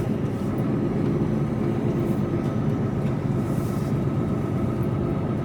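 Steady engine and road drone heard inside the cab of a Mercedes-Benz Actros lorry as it is being driven.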